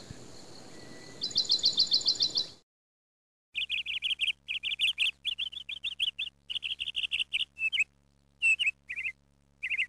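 Bird song: a fast trill of repeated down-slurred notes over a low background hiss, cut off abruptly about two and a half seconds in. After a second of silence, quick high chirps follow in short clusters over a faint low hum.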